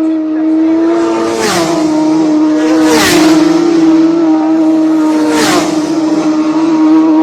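Racing motorcycles passing at high speed three times, about a second and a half in, at three seconds and at five and a half seconds, each engine's pitch dropping sharply as it goes by. A steady drone holds on one pitch underneath.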